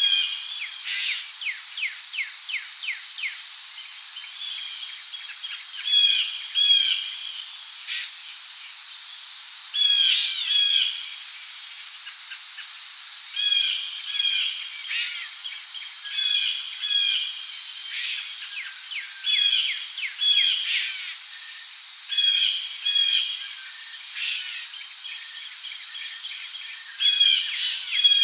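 Rainforest ambience: a steady high drone of insects such as crickets under bird calls. A paired call repeats every couple of seconds, with a quick run of short falling notes near the start.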